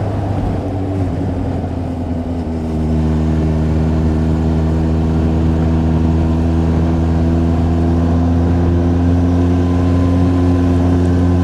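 Honda CB400 Super Four's inline-four engine running under load as the motorcycle rides uphill. The note is rough and unsettled for the first couple of seconds, then settles into a steady, slightly louder tone for the rest.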